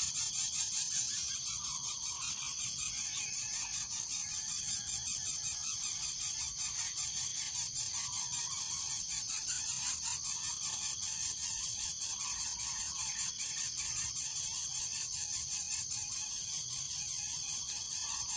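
Steady, high-pitched insect chorus buzzing with rapid even pulses.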